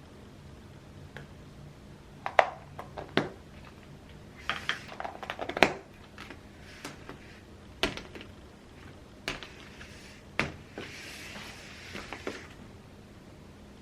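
Kitchen handling sounds: scattered clinks and knocks of dishes and utensils, with a short hiss near the end.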